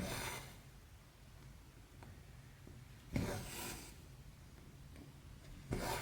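Embroidery floss drawn through 14-count cross-stitch fabric with the needle: a short swishing rasp, three times, at the start, about three seconds in and near the end.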